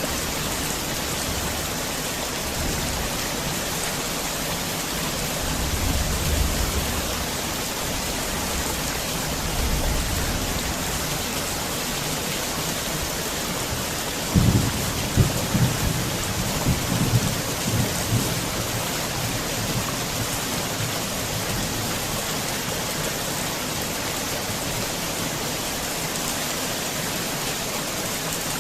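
Heavy rain pouring steadily. Low rumbles swell a few times, and about halfway through a string of rumbling thunder cracks lasts a few seconds.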